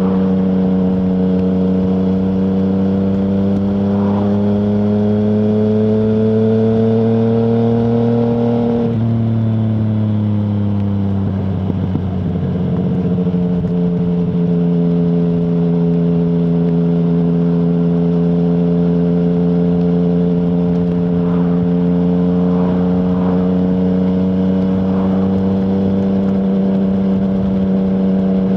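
Yamaha MT-09's three-cylinder engine through an Akrapovic full exhaust with no dB killer, under way. The engine note climbs slowly, drops sharply about nine seconds in and keeps falling for a few seconds, then holds a steady, lower note.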